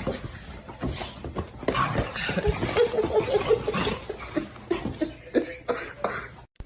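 Person laughing in short, uneven bursts, with scattered clicks and knocks.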